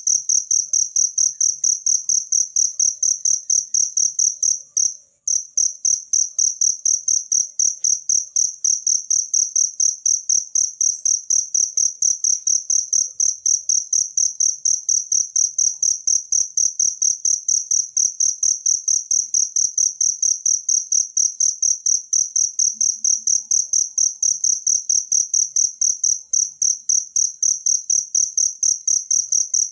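Field cricket (jangkrik) chirping in a steady, rapid run of high-pitched pulses, several a second, with a brief gap about five seconds in.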